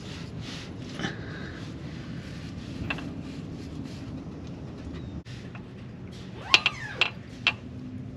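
Light clicks and taps of connecting-rod bearing shells and small metal engine parts being handled and fitted, with a sharper cluster of clicks about six to seven and a half seconds in, over a steady low hum.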